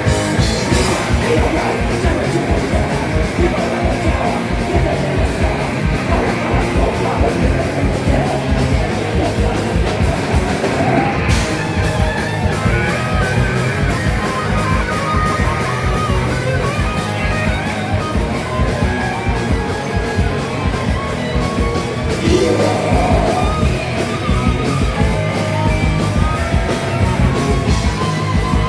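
A live heavy band playing loud and fast, with distorted electric guitars, bass and rapid kick-drum strikes, kicking in at full volume after a quieter guitar passage.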